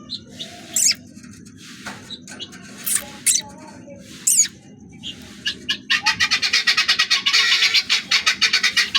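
Birds calling: scattered short, high chirps and squawks, then from about six seconds in a loud, fast run of repeated calls, several a second.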